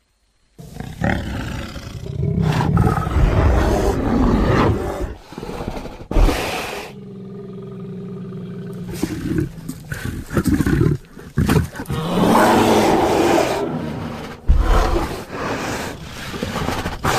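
Creature roars and growls mixed from gorilla and black bear recordings, in several loud rough calls after a brief silence at the start. A lower, steadier moan runs between about seven and nine seconds in.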